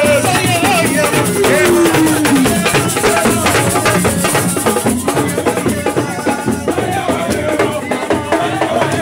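Percussion music of drums and shaken rattles playing a dense, fast rhythm, with a pitched line sliding down in pitch about two seconds in.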